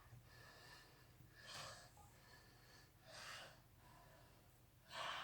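Near silence with a person's faint breaths, three short ones about a second and a half apart.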